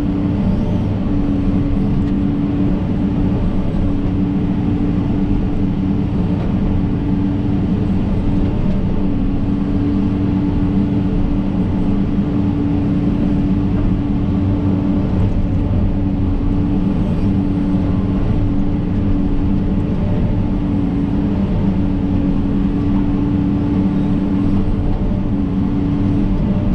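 John Deere 130G excavator's diesel engine running steadily under work, a constant drone with a steady pitched hum.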